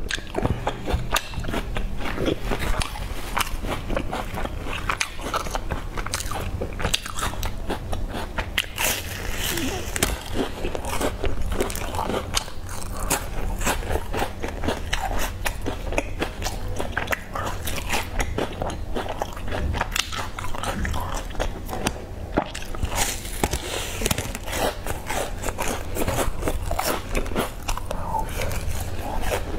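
Close-miked biting and chewing of a round sesame-rimmed sandwich biscuit, with a constant run of crunches and wet mouth clicks.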